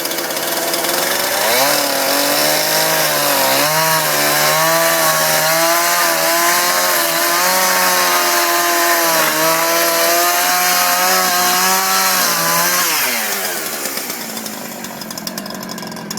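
An engine revving up about two seconds in, running hard with a wavering pitch for about eleven seconds, then winding down, over a steady hiss.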